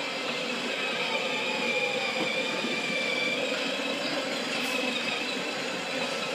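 Battery-powered Thomas the Tank Engine ride-on toy running steadily, its electric motor giving a high whine that drifts slightly in pitch over the rolling of its plastic wheels.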